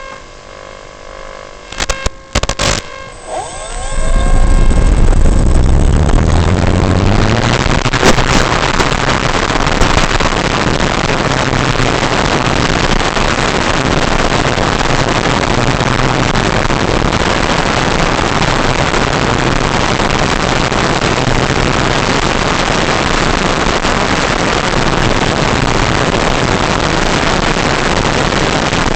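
Electric RC model plane's motor and propeller spinning up about four seconds in, rising in pitch, then running at speed under a loud, steady rush of propeller and wind noise. Before that, a few clicks over faint steady tones.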